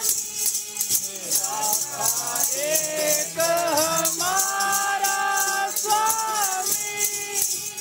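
Sikh devotional kirtan: a voice sings a bending, held melody over a low sustained drone and a constant jingling rattle.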